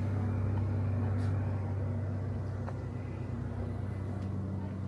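Steady low hum of a vehicle engine running, easing slightly over the few seconds.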